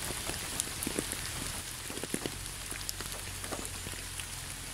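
Steady light rain with scattered individual drops ticking through it.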